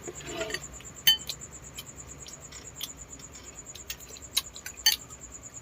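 Scattered small clicks and clinks of tableware being handled, the sharpest about a second in and two more near the end.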